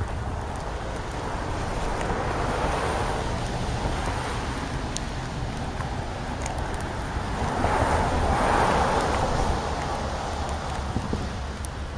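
Steady outdoor background noise, a rushing haze that swells twice: gently about two seconds in, and more strongly about eight seconds in.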